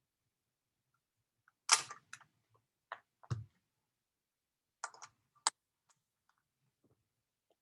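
A few scattered clicks and light knocks, like objects handled at a desk or keys and a mouse being pressed. The loudest comes about two seconds in, followed by a handful more over the next four seconds.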